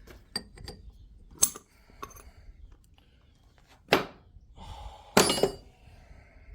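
Metal hub parts being handled and knocked together: a few light clinks, then three sharper metallic knocks spread over several seconds, the last the loudest, each with a short ring.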